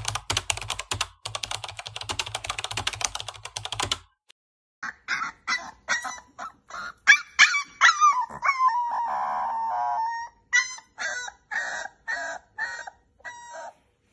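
An Alaskan Malamute puppy cries in a series of short, high whines and yelps, with one longer "woo" howl about halfway through that falls in pitch. It is the distress crying of a puppy left alone in a pen. The first four seconds are background music with quick plucked or strummed notes, which stops before the crying starts.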